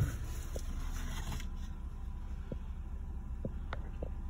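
Nissan Juke engine idling steadily in Park, heard from inside the cabin as a low, even rumble, with a few faint clicks.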